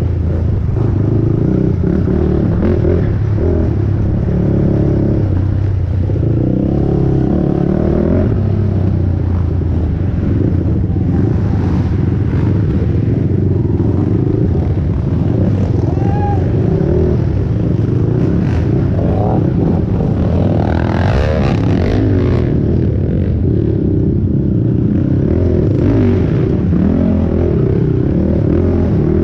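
A 450 cc single-cylinder four-stroke ATV engine running hard under race conditions, its pitch rising and falling as the throttle is worked, with occasional rattles and clatter from the machine over rough ground.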